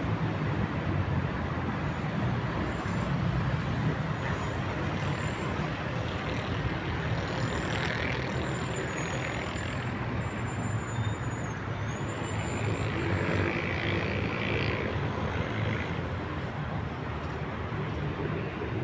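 Steady city traffic noise, a continuous low rumble of road vehicles. A faint, thin, high tone wavers in and out through the middle.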